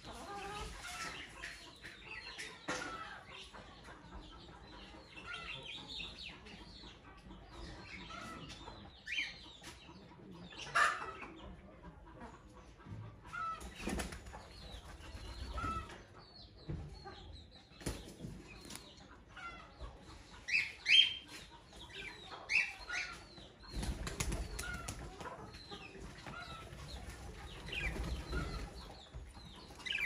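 Birds giving scattered short chirps and calls, the loudest about 11 and 21 seconds in. A stretch of low rustling noise runs near the end.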